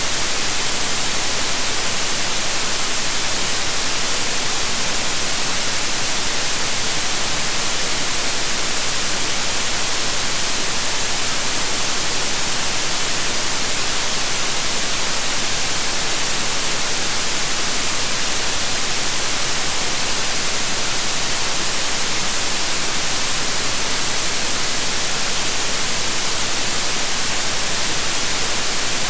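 Steady white noise: an even, hissing "sshh" with no changes or events, brightest in the high treble.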